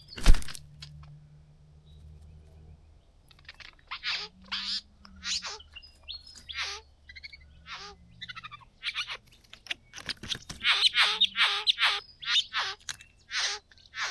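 Satin bowerbirds calling at the bower: a long run of short, harsh calls, each falling sharply in pitch, coming thickest near the end. A sharp knock sounds just as it begins.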